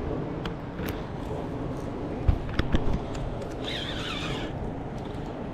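Steady rushing of river water, with a few short knocks a little past two seconds in and a brief high wavering sound near the middle.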